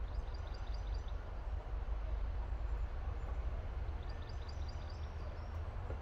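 A small songbird singing two short phrases, each a quick run of high repeated notes, about three seconds apart, over a steady low rumble.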